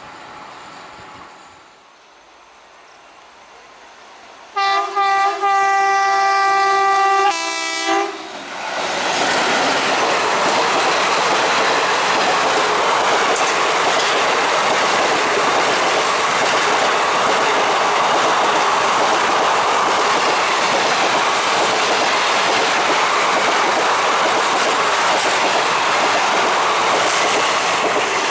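High-speed Indian Railways express train sounding its horn, a few short toots and then a long blast, as it approaches. It then passes at speed in a loud, steady rush of wheels on rail.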